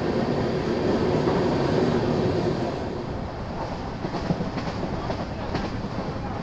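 South Bihar Express passenger train running at speed, heard from an open coach door: a steady rumble of wheels on the rails, easing slightly about three seconds in, with a few rail-joint clicks in the second half.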